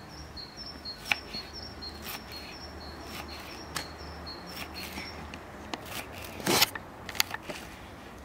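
A small bird sings a high two-note phrase over and over, about two phrases a second, and stops after about five seconds. Scattered sharp clicks and knocks run through it, with one short, louder scrape about six and a half seconds in.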